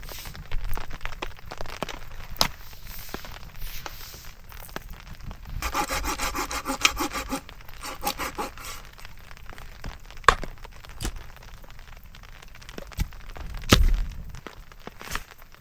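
A saw cutting through firewood in uneven strokes, with a longer, denser rasping stretch partway through and scattered sharp clicks and knocks of wood.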